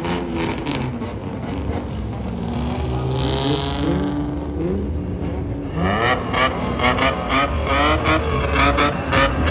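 Tuned car engines revving, their pitch rising and falling, with a short hiss about three seconds in. The sound turns louder and choppier from about six seconds in.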